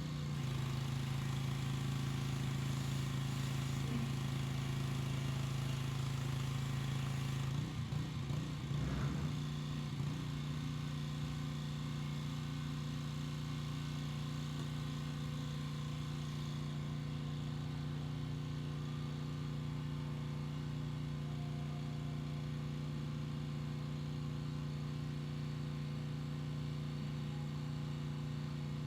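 Gas-engine pressure washer running steadily with a constant engine hum. A hiss over it falls away about eight seconds in, and the sound is steadier and less hissy after that.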